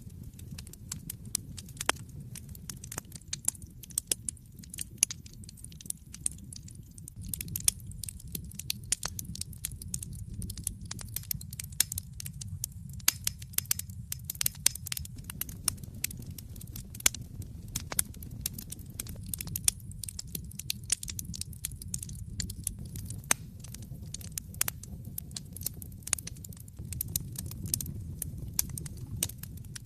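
Wood fire burning in a fireplace: a steady low rumble with frequent sharp crackles and pops throughout.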